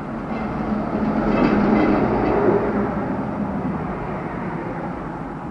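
A vehicle passing by, its noise swelling to a peak about two seconds in and then fading away.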